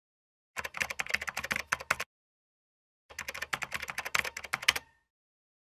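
Rapid computer keyboard typing in two bursts of about a second and a half each, a second-long gap between them.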